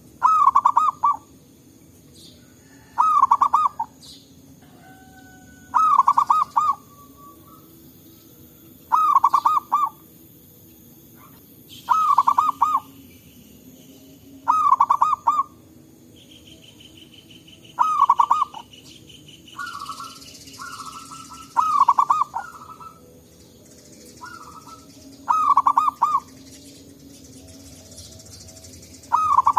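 Zebra dove (perkutut) singing its cooing phrase of several quick notes, about one second long and repeated roughly every three seconds. A fainter, higher trill from another bird or insect runs for a few seconds midway.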